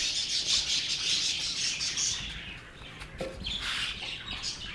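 Budgerigars chattering, a dense high-pitched twittering that thins out about two seconds in.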